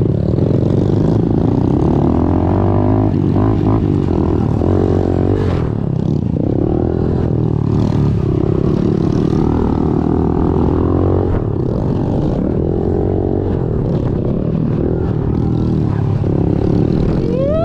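Pit bike's small single-cylinder four-stroke engine running hard on a dirt track, its pitch rising and falling as the rider works the throttle and gears.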